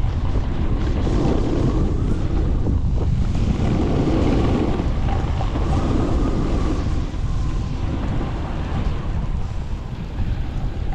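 Wind buffeting the microphone of a camera carried on a fast downhill run on snow: a steady, loud rumbling rush, easing slightly past the middle.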